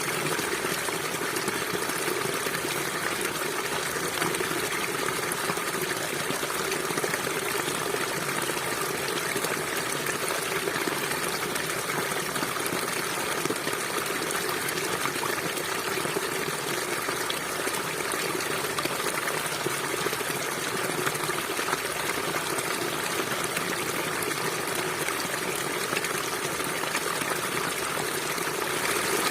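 River water flowing steadily, a constant rushing and trickling without breaks.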